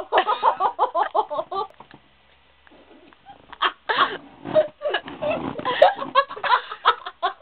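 People laughing hard in quick, rhythmic ha-ha bursts, breaking off for about a second and a half, then laughing again in a messier burst toward the end.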